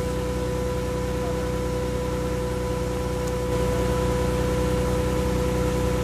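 Car engine idling steadily, with a constant tone sounding over it; the engine noise grows slightly louder about halfway through.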